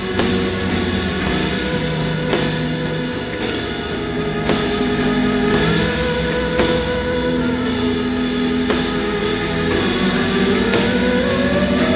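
Live rock band playing an instrumental passage with no vocals: drums under sustained pitched chords, and a lead line that slides steadily upward near the end.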